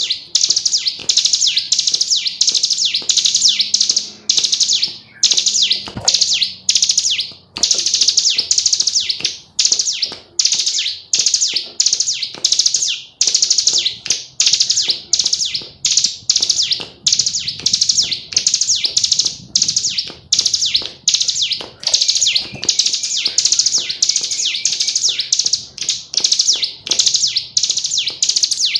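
Female ciblek gunung, a prinia, calling energetically in rapid, high-pitched chirping phrases that repeat about once a second without letup, as a tutor recording for songbirds to copy.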